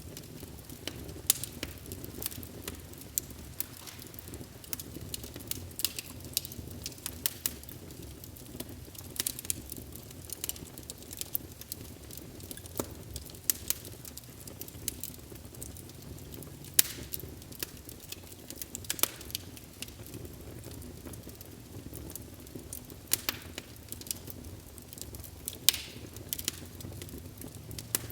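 Wood fire burning in a fireplace: a steady low rumble of flame with irregular crackles and a few sharp pops.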